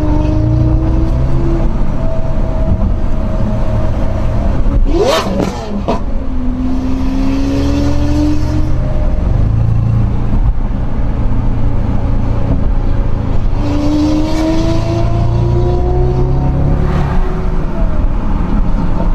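Car engine accelerating in long rising sweeps under heavy throttle, heard from inside a following car, with a sharp crack about five seconds in.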